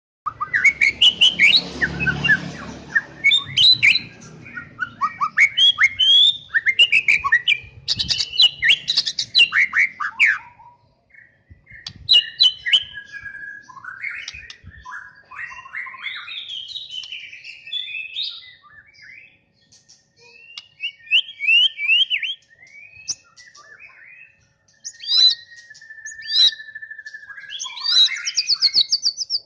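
White-rumped shama (murai batu) singing a long, varied song of loud whistled phrases, quick chattering runs and trills, with brief pauses between phrases. A low rumble sits under the first few seconds.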